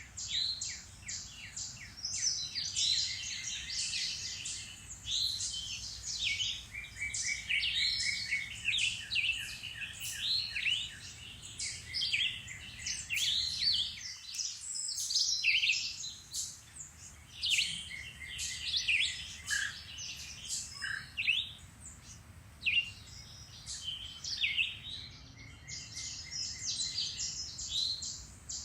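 Several songbirds singing and chirping together in a spring woodland chorus, with many overlapping trills and whistled notes.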